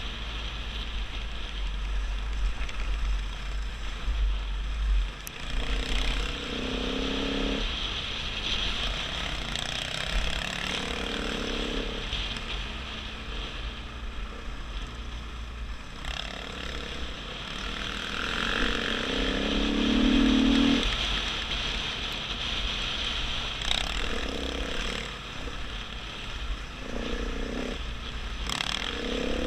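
KTM 500 EXC dirt bike's single-cylinder four-stroke engine running while riding, its revs rising and falling several times. Wind rumbles on the microphone, heaviest at the start.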